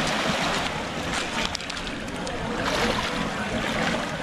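Sea waves washing onto the beach: a steady rushing surf noise.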